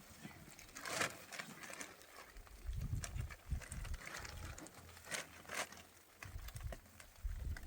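Donkey's hooves stepping on the ground, a few scattered knocks, over low rumbling gusts of wind on the microphone.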